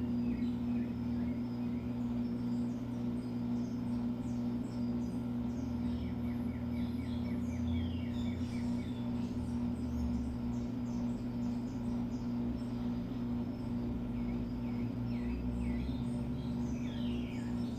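Midea Wave-Agitator top-load washing machine running mid-cycle with a steady low hum and a low rumble that swells now and then. Birds chirp repeatedly in the background, including a quick run of about a dozen notes.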